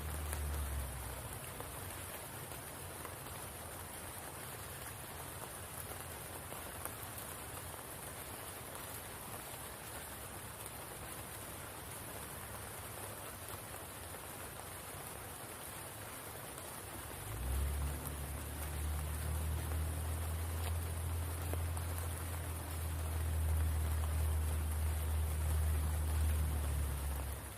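Steady rain falling on the spring pool and surrounding foliage, an even hiss of drops. A low rumble joins it about two-thirds of the way through and grows a little louder near the end.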